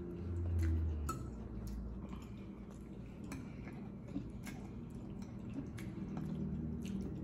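Close-up wet chewing and mouth sounds of someone eating spaghetti in tomato sauce, with scattered small clicks of a fork against the plate as pasta is twirled.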